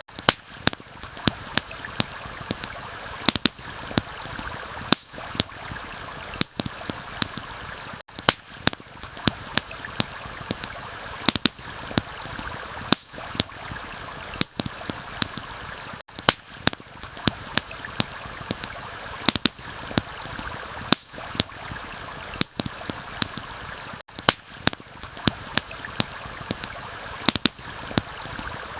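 Steady rush of a flowing stream with frequent sharp pops and crackles from a campfire. The crackle pattern repeats about every eight seconds.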